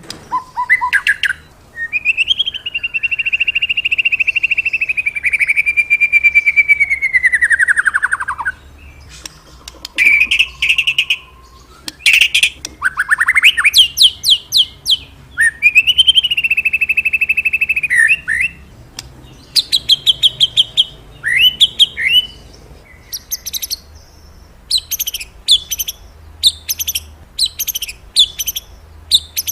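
Murai songbird singing a varied, loud song: long held trilled phrases, shorter whistled notes and near the end a quick series of sharp repeated notes. This is the 'gacor' full song used to provoke pet murai into singing.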